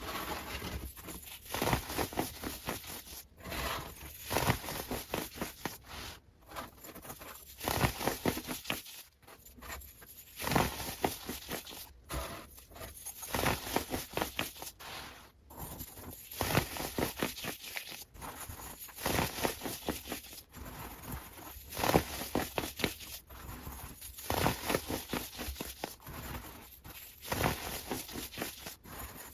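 Sped-up ASMR sounds: dense crackling and crinkling like tearing or crumpling material, chopped into short clips by abrupt cuts every second or two.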